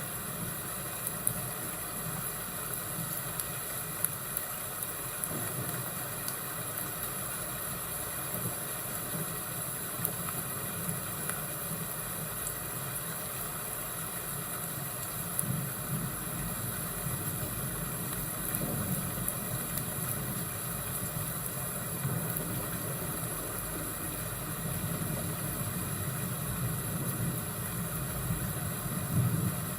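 Fireplace and thunderstorm ambience: a steady hiss under a low rolling rumble of thunder that swells past the middle and again near the end, with a few sharp crackling pops from the fire.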